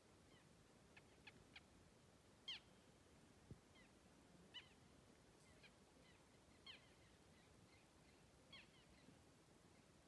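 Faint bird calls: short high chirps, several sliding down in pitch, coming about once a second. There is a soft knock about three and a half seconds in.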